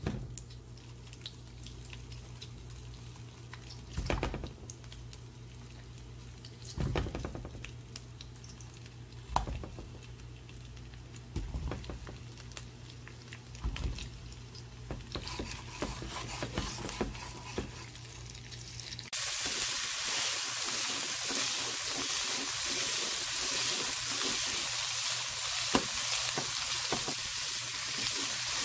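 Stuffed zucchini frying in a little vegetable oil in a frying pan. The oil sizzles quietly at first, with a few short knocks. About two-thirds of the way in it changes to a loud, steady sizzle.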